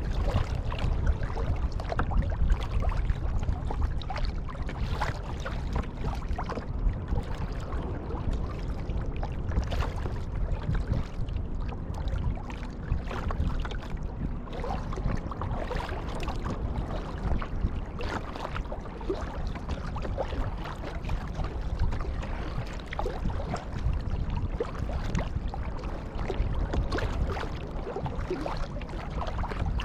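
Kayak paddling on open water: the paddle blades dip and splash, with many small irregular splashes and drips over a steady low rumble.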